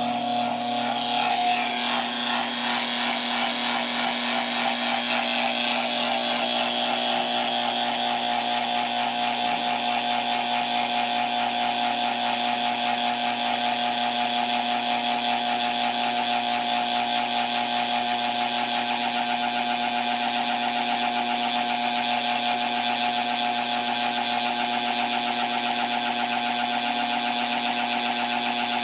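Heat sealing machine for medical-grade paper running steadily, a constant hum with a fast, even rattle through it: the strange noise that marks this sealer as not running right.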